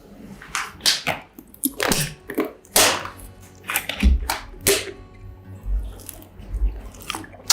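Close-miked chewing and biting of a mozzarella corn dog: irregular wet smacks and crisp clicks of the mouth, with a few low thuds in the second half.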